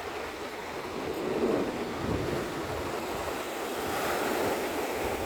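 Surf washing in on the beach, with wind buffeting the microphone.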